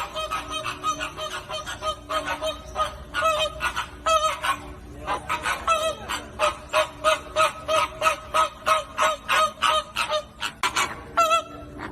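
Flock of flamingos honking: many short calls in quick, overlapping succession, several a second, with a few longer calls that slide in pitch.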